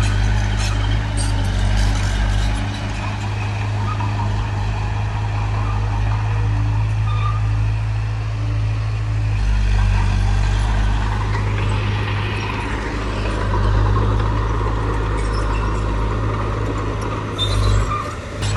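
Heavy earthmoving machinery's diesel engine running steadily with a low drone. Its note shifts a couple of times, about 3 s and 9.5 s in.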